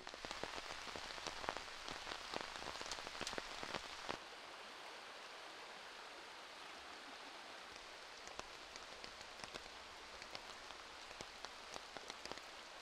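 Rain and running water: a steady wash with scattered drops pattering. The drops are thickest in the first four seconds, then the wash settles and turns steadier.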